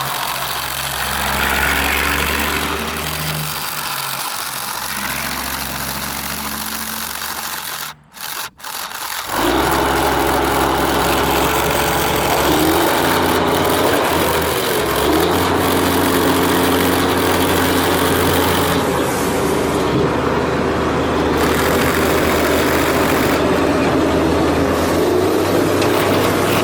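Radio-controlled construction models running: a steady engine-like hum with a rubbing, scraping noise over it. The sound drops out briefly about eight seconds in, then resumes with the hum shifting in pitch.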